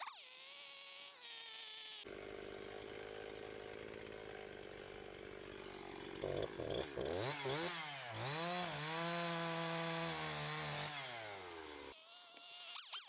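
Two-stroke chainsaw running at idle, then revved up about six seconds in and held at high speed before dropping back; it starts and stops abruptly.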